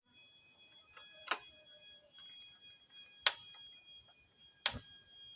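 Steady high-pitched chorus of forest insects, with three sharp, loud clicks about two seconds and a second and a half apart.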